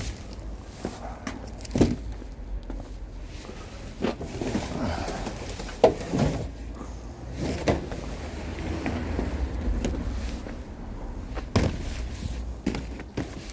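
Several sharp knocks and thuds, about four of them a few seconds apart, with scuffling in between, over a low steady rumble.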